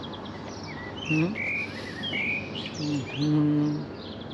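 Small birds chirping and twittering in short, high calls. A person's low wordless voice sounds briefly twice among them, louder than the birds.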